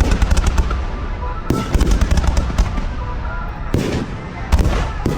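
Fireworks bursting: a string of sharp booms, with clusters about a second and a half in and again near the end, and crackling between them.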